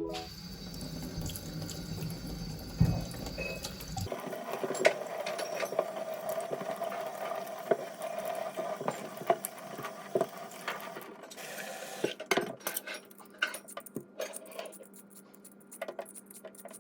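Water running, as from a tap into a sink. Scattered light clicks and knocks follow near the end.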